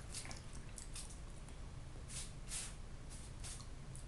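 Faint eating sounds: a man chewing with a series of short, soft, wet mouth smacks.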